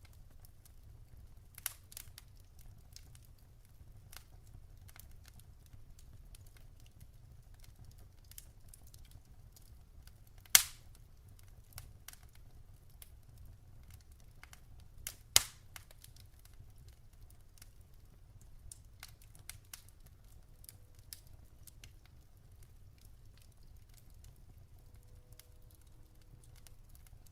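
Wood fire crackling in a fireplace: scattered small ticks and snaps, with two loud, sharp pops about ten and fifteen seconds in, over a low steady rumble.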